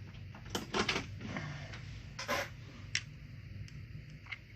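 A few light clicks and taps of a small pick and carburetor parts being handled on a workbench, with a short scrape or rustle a little over two seconds in.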